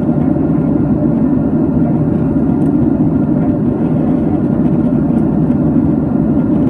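Steady roar of a Boeing 767's engines and rushing air, heard from inside the passenger cabin in flight.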